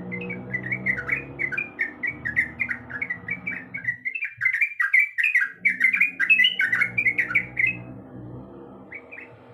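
Yellow-vented bulbul (trucuk) singing a fast run of short bubbly notes, which breaks off about two seconds before the end, with two last notes after. A low steady hum runs under the song and drops out for a moment midway.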